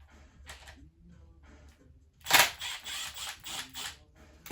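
Handling noises: a few light clicks, then a little over two seconds in a loud, sudden clatter and rustle of things being moved, running for about a second and a half.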